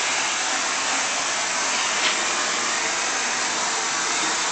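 Vacuum cleaner running steadily as it is pushed over the floor, with a brief click about two seconds in.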